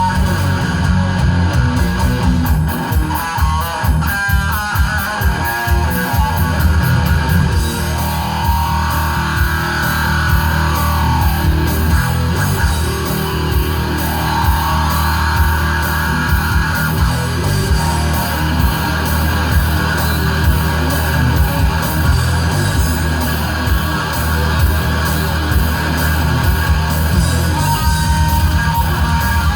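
Live heavy metal instrumental: distorted electric guitar lead over a heavy, fast rhythm of bass and drums, loud and continuous.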